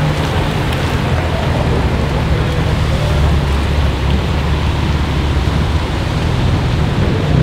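BMW M4 F83 convertible's twin-turbo straight-six running with a steady low rumble as the car pulls past at low speed and away, over tyre hiss on the wet road.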